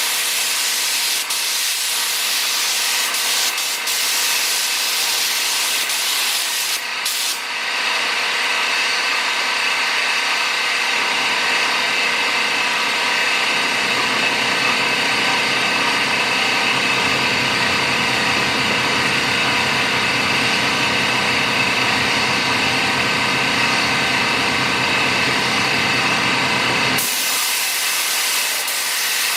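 Steady hiss of compressed air, as from an automotive paint spray gun. About seven seconds in the sound changes abruptly to a fuller noise with a few steady tones, and a deeper rumble builds under it from about eleven seconds. It all cuts off suddenly near the end, leaving the plain hiss again.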